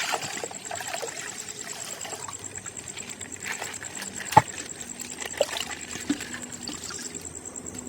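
Water trickling and dribbling out of a burst plastic ice bag filled with coloured water. A single sharp click comes about four and a half seconds in.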